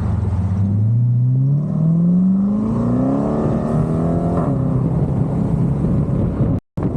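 Car engine accelerating, its pitch climbing steadily, then dropping sharply at a gear change about four and a half seconds in and settling into a steadier drone. The sound cuts out completely for a split second near the end.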